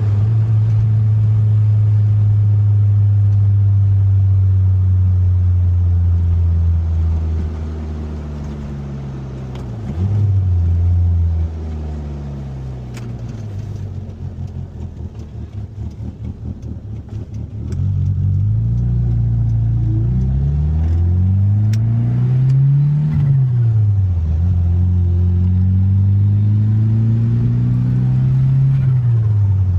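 Turbocharged 4G63 four-cylinder of a 1995 Mitsubishi Eclipse GSX, heard from the driver's seat. It runs at a steady cruise, then drops to a quieter, pulsing idle. About eighteen seconds in it accelerates with a rising engine note, falls briefly at a shift, and rises again before letting off near the end.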